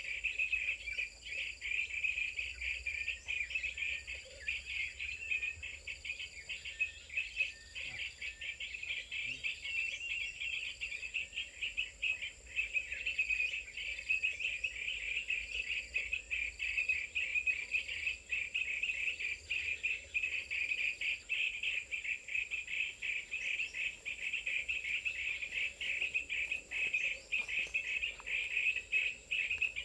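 Dense, continuous insect chirring of crickets, made of rapid pulses. A short high note repeats at an even pace about once every second and a bit through the first two-thirds, and a thin steady high whine runs underneath.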